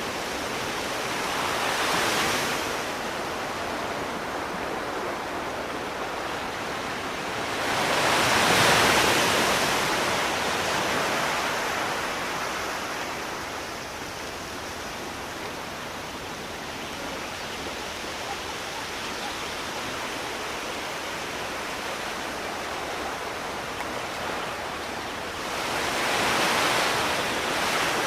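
Sea waves washing ashore over a steady hiss of surf, with three waves swelling and breaking: one early, the loudest about a third of the way in, and one near the end.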